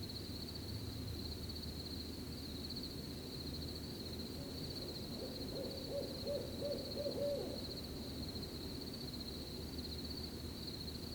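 Owl hooting in a quick run of about six short hoots a little past the middle, over crickets trilling steadily and a soft low rustle of night ambience.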